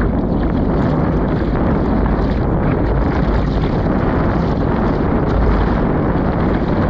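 Strong wind buffeting the microphone: a loud, steady, low rumbling rush that doesn't let up.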